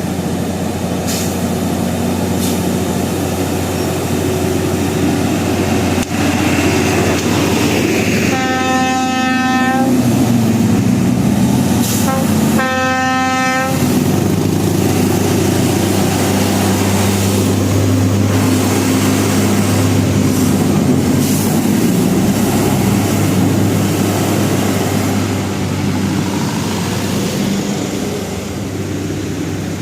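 Heavy truck diesel engines labouring steadily up a steep climb, with two long air-horn blasts a few seconds apart near the middle.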